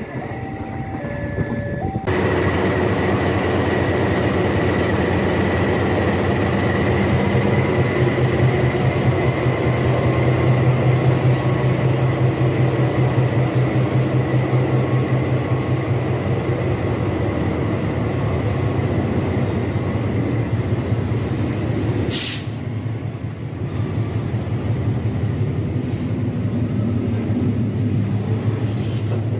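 Diesel locomotive hauling a train of fuel tank wagons past at close range: a steady loud engine drone and rolling wheels on the rails. The sound changes abruptly about two seconds in and again near the 22-second mark, then runs on a little quieter.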